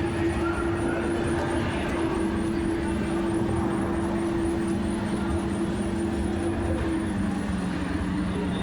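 Go-kart running at speed around a race track, its motor giving a steady drone over the rumble of the ride.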